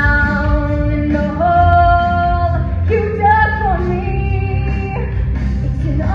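Female voices singing a song, holding long sustained notes that shift in pitch, over a steady low musical accompaniment.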